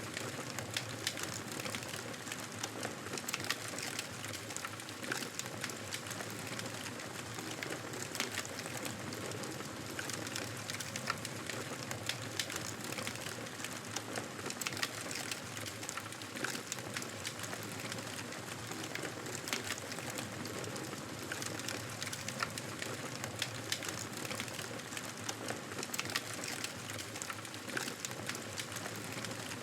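Wood fire burning in a fireplace: a steady soft hiss of flames with frequent small crackles and pops scattered throughout.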